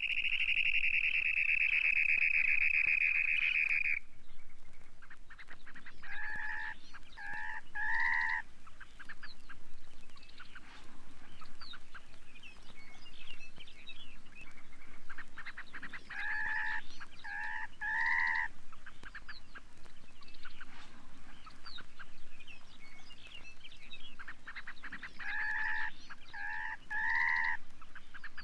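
Field recording of a dunlin: a long buzzing trill for the first four seconds, then three times a quick group of three short, lower calls, over faint chirps of other birds.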